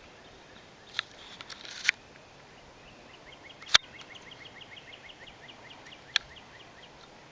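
A small bird trilling, a rapid run of short chirps starting about three seconds in and lasting a few seconds, over quiet outdoor background. A few sharp knocks stand out, the loudest about halfway through.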